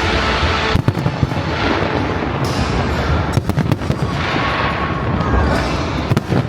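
A large fireworks display firing in a dense barrage: overlapping booms and sharp bangs with swells of crackling.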